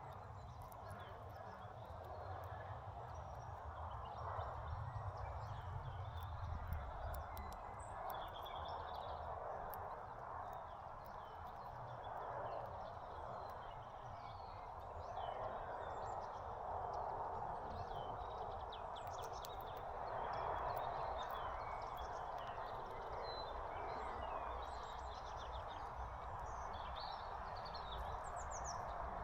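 Small songbirds at a seed feeder giving short, scattered chirps throughout, over a steady background rumble and hiss.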